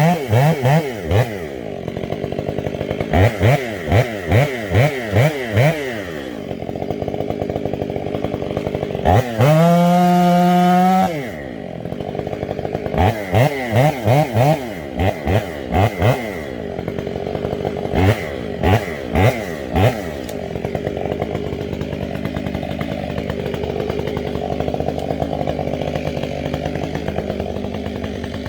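Stihl MS 500i chainsaw being blipped up and down in quick throttle bursts, with one sustained full-throttle run of about two seconds near the middle, then settling to a steady idle for the last several seconds.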